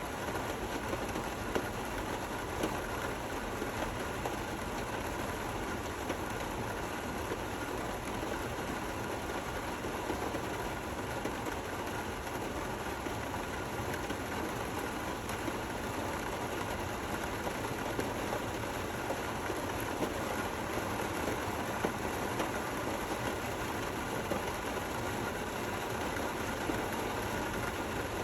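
Steady rain falling, an even hiss of drops with occasional sharper single ticks.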